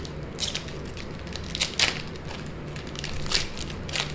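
Plastic trading-card pack wrapper being torn open and crinkled in a few short crackles, the loudest a little under two seconds in, over a faint low hum.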